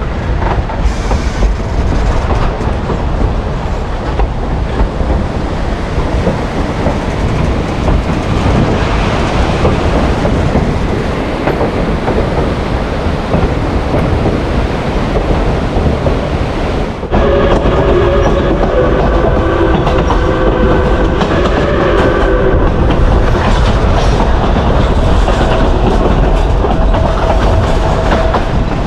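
A narrow-gauge passenger train running, heard from aboard: a steady rumble and clatter of wheels on rail. A little past halfway it suddenly gets louder, and several held high tones sound over the rumble until the end.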